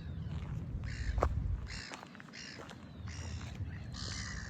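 Birds giving a series of short, harsh calls, several in a row, over a low rumble.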